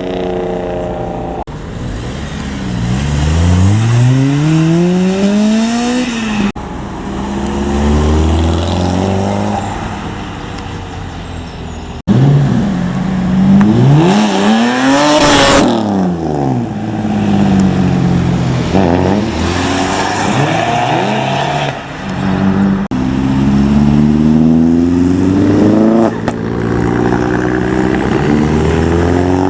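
A run of short clips of car engines accelerating hard away, each engine note climbing in pitch as it revs. About fifteen seconds in, one car passes close and loud, its note rising and then falling sharply as it goes by.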